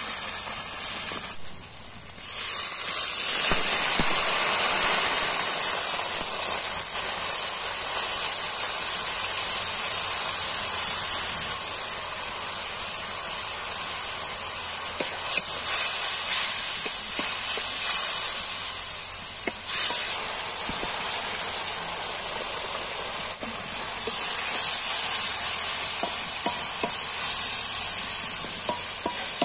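Onions and spices frying in oil in a metal wok, a steady sizzle, stirred with a wooden spatula. The sizzle drops away briefly about two seconds in, then comes back.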